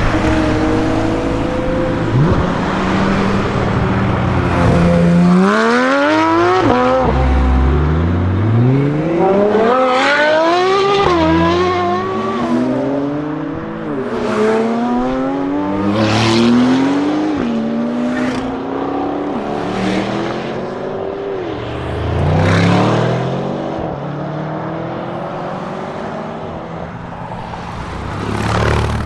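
Lamborghini Huracán STO's naturally aspirated V10 accelerating hard through several quick upshifts, the pitch climbing and dropping back at each shift. A second hard acceleration comes about three-quarters of the way through.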